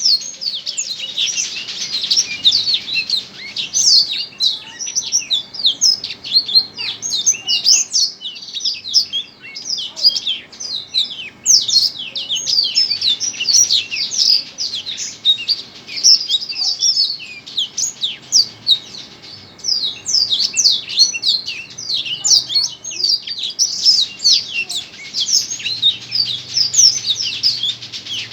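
Small songbird singing a fast, unbroken stream of high chirps and trills, with only brief pauses.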